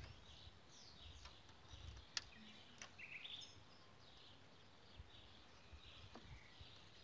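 Faint birdsong, with a sharp click about two seconds in and a softer one just after.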